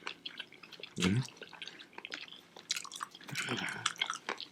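Close-miked chewing of sushi: many small wet mouth clicks and smacks, with a brief low vocal murmur about a second in.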